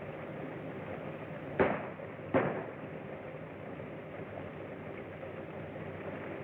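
Two sharp bangs less than a second apart, over a steady hum and hiss of an old film soundtrack.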